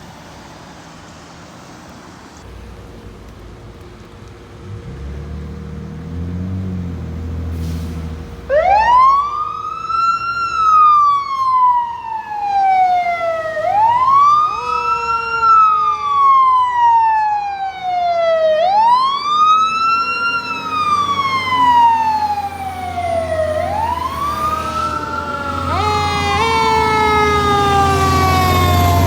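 Fire truck approaching with its engine rumbling, then its siren switching on a few seconds in and wailing, each cycle rising quickly and falling slowly over about five seconds. Near the end a second, faster sweeping siren tone joins in.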